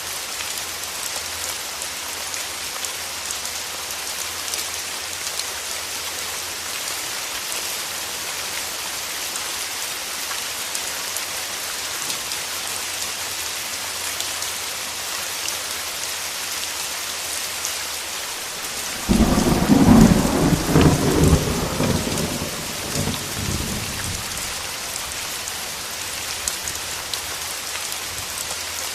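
Steady rain falling, with a clap of thunder about two-thirds of the way through that starts suddenly and rumbles away over a few seconds.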